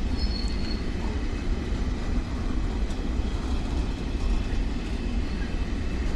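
A train running along the track, a steady low rumble.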